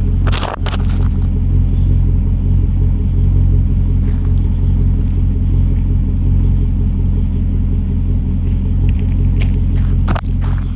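2009 Pontiac G8 GT's 6.0-litre V8 idling steadily through a Solo Performance axle-back exhaust, a deep even rumble. A short noise burst comes about half a second in and another near the end.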